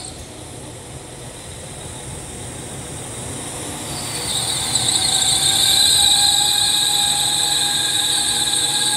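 Transport for Wales diesel multiple unit moving through the station, growing louder as it passes. From about four seconds in, a steady high-pitched whine or squeal joins the running rumble.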